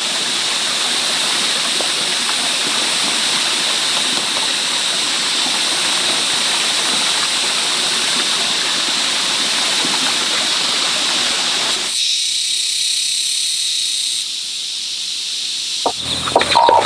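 Water running steadily with a rushing sound that stops suddenly about twelve seconds in, over a steady high hiss that continues throughout. A chicken starts clucking near the end.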